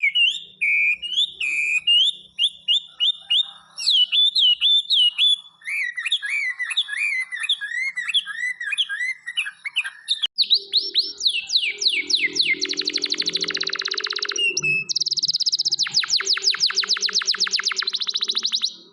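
A pet songbird singing: repeated whistled notes and sliding phrases. About halfway through, the song turns to long, fast trills.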